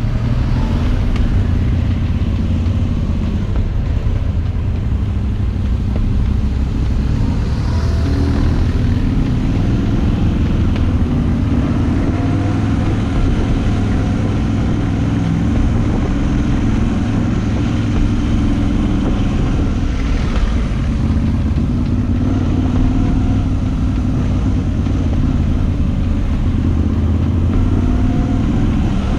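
Moto Guzzi V85TT's air-cooled transverse V-twin running while the bike is ridden, its note shifting up and down with the throttle.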